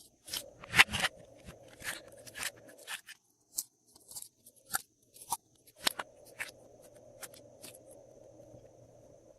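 Glossy slime being squished and stretched by hand, making a string of sticky clicks, pops and crackles at uneven intervals, loudest about a second in.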